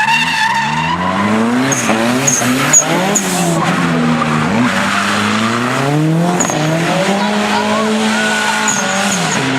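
Car engine revving hard during a burnout, its pitch climbing and dropping several times, over the steady hiss and squeal of spinning tires.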